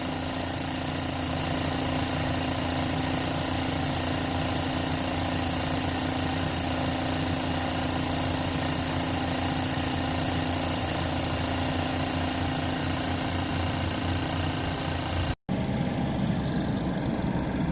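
2010 Chevrolet HHR's four-cylinder engine idling steadily while it warms up, its cooling system freshly refilled after a thermostat replacement. The sound cuts out for an instant about fifteen seconds in, then picks up again.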